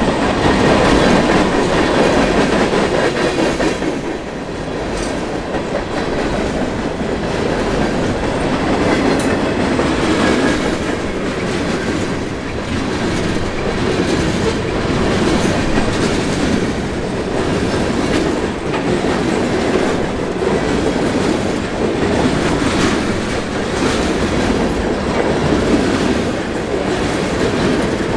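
Freight cars of a long mixed freight train (boxcars and tank cars) rolling past close by: a steady rumble of steel wheels on rail, with clicking from the wheels.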